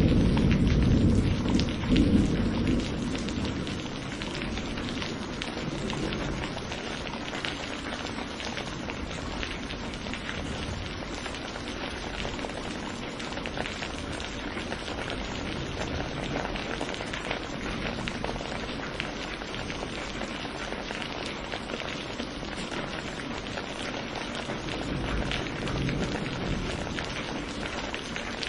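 Steady rain falling during a thunderstorm, with a rumble of thunder dying away over the first few seconds.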